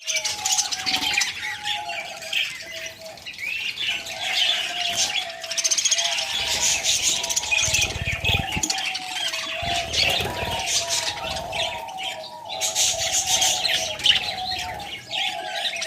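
A flock of small cage birds chirping and chattering continuously, with a steady wavering tone underneath and a few bursts of low rustling midway.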